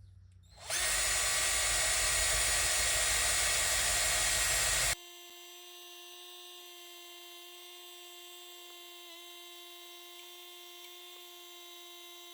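Electric power tool running: a loud, rough grinding stretch about a second in, then a cut to a quieter, steady whine with overtones, typical of a restoration job such as wire-wheeling or sanding metal.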